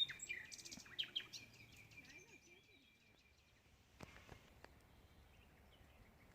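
Small birds chirping over a thin steady high note, dying away after about two seconds; then faint outdoor background with two light clicks.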